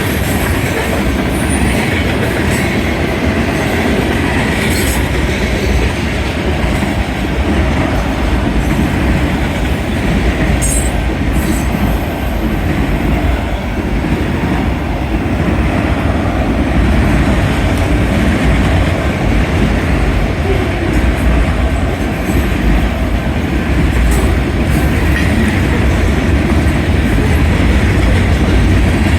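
Union Pacific manifest freight train's cars rolling past at a grade crossing: a steady, loud rumble and clatter of steel wheels on the rails.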